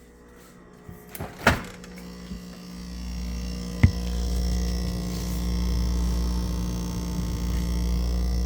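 GE French-door refrigerator (model GFE28GMKES) starting a very loud, deep buzz about three seconds in, after a few knocks; the buzz builds and then holds steady, with one sharp click a second later.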